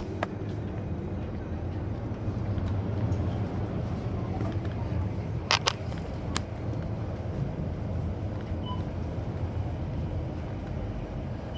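Honda Shadow 600 V-twin engine running steadily under a rider, with a few sharp clicks or knocks about halfway through, a close pair then one more.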